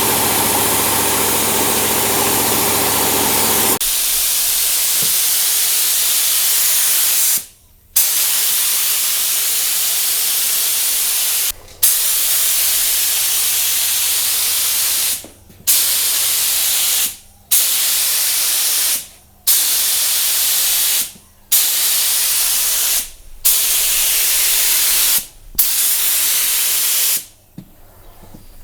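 Paint spray gun hissing as primer is sprayed in long passes, the trigger released for a moment about every two seconds. Under the hiss a motor hums steadily and stops abruptly about four seconds in.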